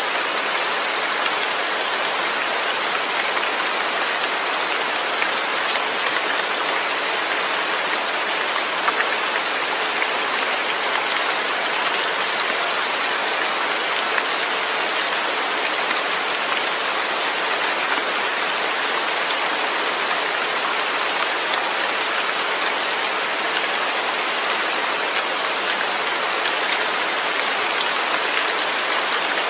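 Steady rain: an even hiss of falling water with single drops standing out now and then.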